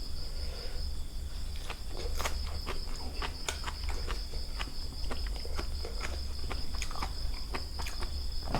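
Crickets chirring steadily in the background, with a scattering of sharp clicks and taps from people eating at the table.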